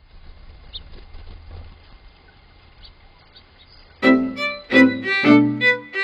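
Faint low background hum with a few brief high chirps, then about four seconds in a violin tune starts loud, in separate, clearly struck notes.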